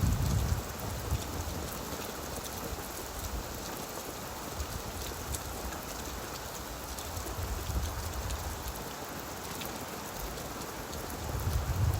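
Steady rain falling on leaves, an even patter with fine drop speckles. A low rumble swells up briefly at the start and again about two-thirds of the way through.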